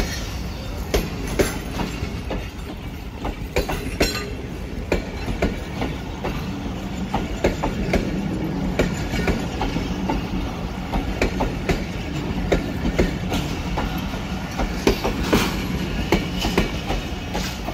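Passenger coaches of a Pakistan Railways express rolling past close by, their wheels clacking irregularly over the rail joints above a steady low rumble.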